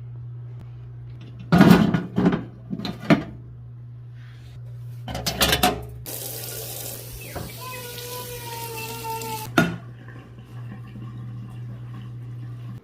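Kitchen tap running into a container for a few seconds, after several clunks of dishes being handled, ending with another clunk. A steady low hum runs underneath.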